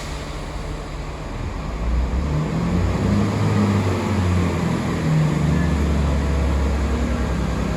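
Diesel train engine pulling away from a station, its low drone growing louder about two seconds in and stepping up in pitch as it accelerates.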